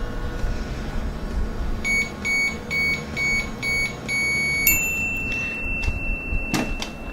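Toy microwave playset beeping: a quick run of about seven short, even electronic beeps, then one long held beep, signalling that the 'cooking' cycle is done. A couple of plastic clicks near the end.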